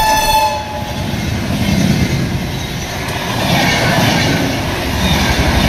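Passenger train rolling past, its wheels clattering and rumbling on the rails. A held tone, falling slightly in pitch, fades out within the first second.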